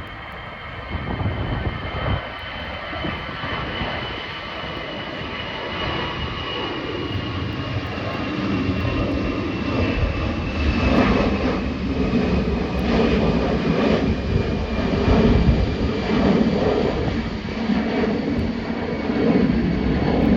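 Airbus A319 twin-jet engines at takeoff thrust: a roar that builds steadily louder, with a high fan whine sliding slowly down in pitch.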